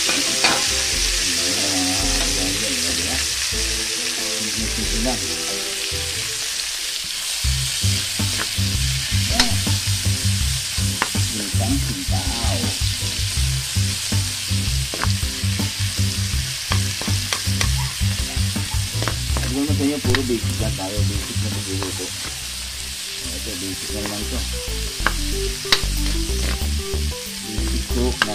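Chopped onions, tomatoes and browned pork pieces sizzling in hot oil in a wok. From about eight seconds in, a spatula knocks and scrapes against the pan again and again as the mixture is stirred.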